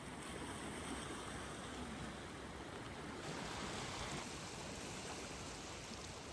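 Steady wash of sea waves on the shore, a soft even hiss that turns brighter about three seconds in.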